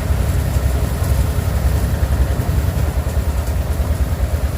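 An engine running steadily with a low, rapid chugging.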